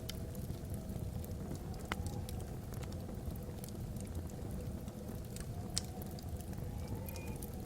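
Wood fire burning in a fireplace: a steady low rumble of the flames with scattered sharp crackles and pops from the logs. Under it, a faint wavering tone rises and falls, the soft howl of wind across the chimney.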